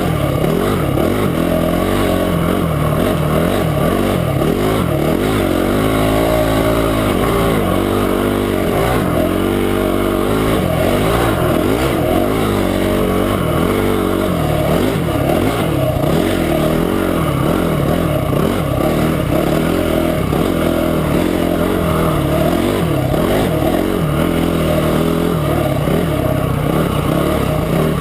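Motorcycle engine running under way on a trail ride, its pitch rising and falling with throttle changes and gear shifts.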